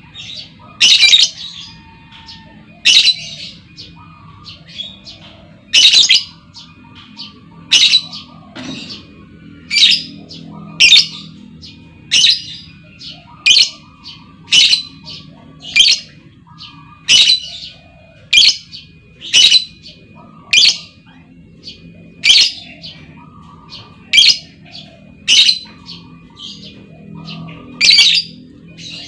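Female lovebird calling: loud, sharp, high-pitched chirps repeated at uneven intervals of about one to two seconds, over a faint steady low hum.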